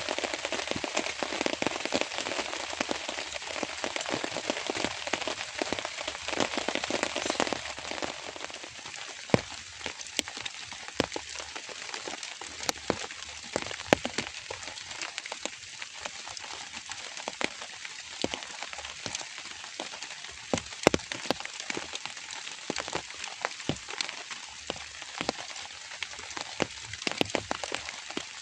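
Steady rain falling, heavier for about the first eight seconds, then easing to lighter rain with many separate drop hits.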